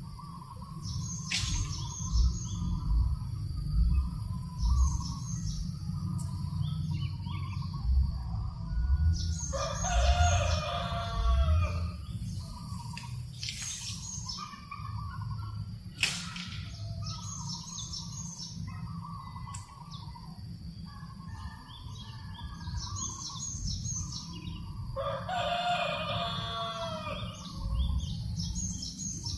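A rooster crowing twice, once about ten seconds in and again near the end, over repeated high chirps of small birds. A low rumble of breeze runs underneath.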